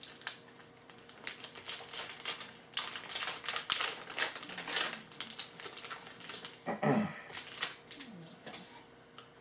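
A trading card pack wrapper crinkling and tearing open, with cards being handled: a dense run of quick crackles and rustles from about a second in to about six seconds in.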